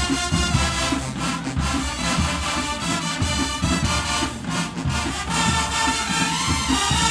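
A marching band playing: brass horns holding chords over heavy bass drums keeping a steady beat.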